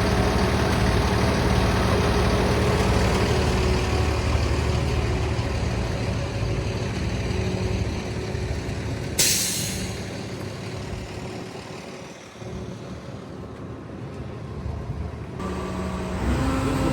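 Jet fuel truck's engine and fuel-pumping system running steadily, with a short sharp hiss of compressed air about nine seconds in. After it the running sound dies down, then picks back up near the end.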